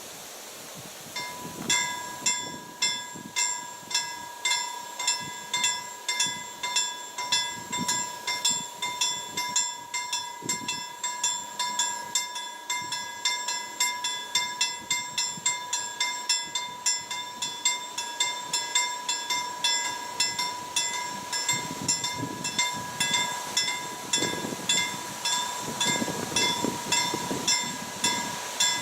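Level crossing warning bell ringing, a repeated ding about twice a second that starts about a second in and keeps going, signalling an approaching train. A low rumble rises under it near the end.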